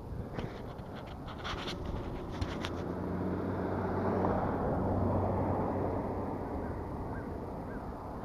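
A vehicle driving past on the road: its engine and tyre noise swells to a peak about halfway through, then fades away. A few light clicks and scrapes come in the first couple of seconds.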